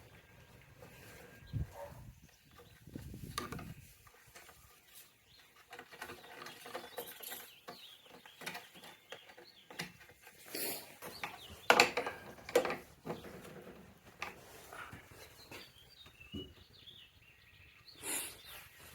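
Irregular clicks, taps and short scraping rubs of hand work on the scooter's mirror mount, metal parts being handled and threaded together, with a few sharper knocks about two-thirds of the way through.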